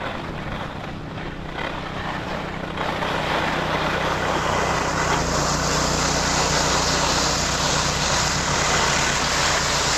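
Skis side-slipping down a packed, icy race course, their edges scraping the snow in a steady hiss that grows louder about three to five seconds in. Under it an engine drones steadily.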